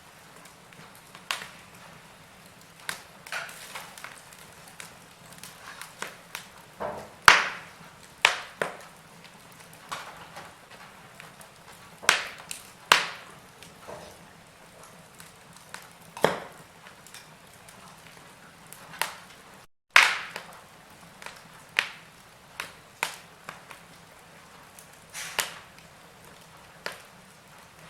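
Wood fire crackling in a fireplace: irregular sharp pops and snaps over a faint steady hiss. The sound cuts out for an instant about twenty seconds in, just before one of the loudest pops.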